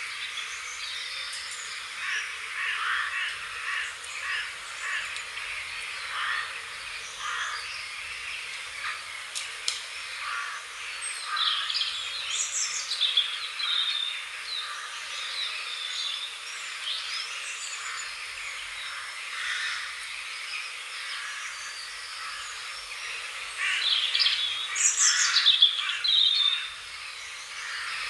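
Wild birds calling and singing, with many short chirps throughout. The loudest bursts come near the middle and again near the end.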